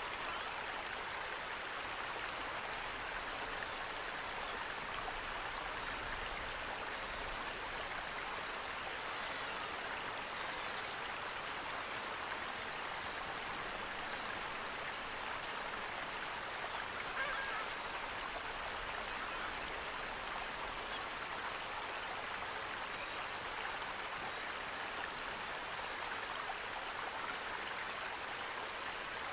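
Steady, even rush of running water from a stream, with one brief faint sound about seventeen seconds in.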